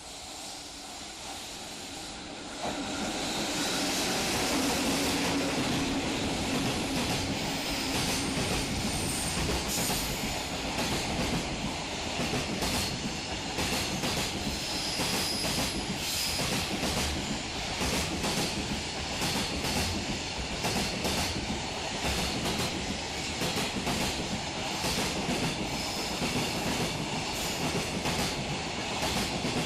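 Freight train passing close by, its wheels clicking steadily over rail joints, with short high-pitched wheel squeals. It gets loud suddenly about two and a half seconds in and stays loud.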